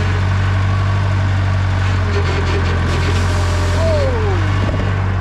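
1967 JCB 3C Mk 2 backhoe loader's diesel engine running steadily, with a brief falling tone about four seconds in.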